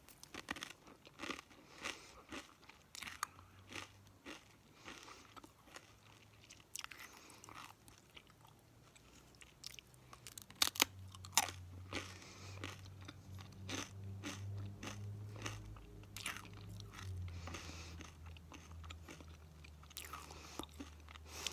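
Close-miked eating of crunchy food: scattered crisp bites and crunches with chewing between them, a couple of louder crunches about halfway through.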